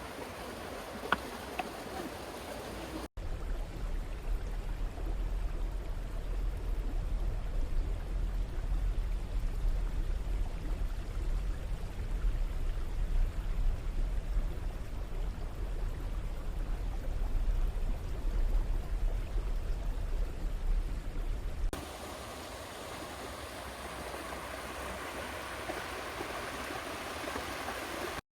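River rapids: water rushing over rocks, a steady hiss of moving water. Through the middle stretch a heavy low rumble sits under it, and the sound changes abruptly about three seconds in and again a few seconds before the end.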